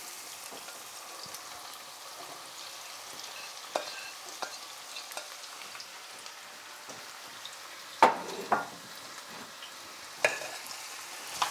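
Onions, garlic and carrot sizzling steadily in a frying pan, with a few sharp knocks of the stirring utensil against the pan, the loudest about eight seconds in.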